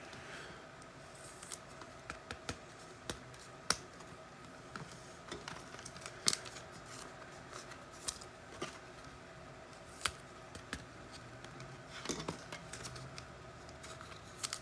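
Trading cards being handled and shuffled through: faint, irregular clicks and snaps of card edges, with a few quick ones together near the end, over a faint steady hum.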